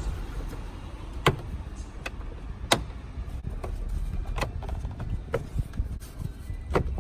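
Sharp clicks and knocks, about six spread unevenly, from handling and closing the plastic air filter housing of a 2016 Ford Explorer. A low rumble runs underneath.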